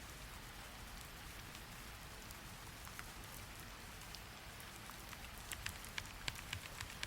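Steady rain hiss, joined about five and a half seconds in by a run of sharp, irregular keyboard key clicks.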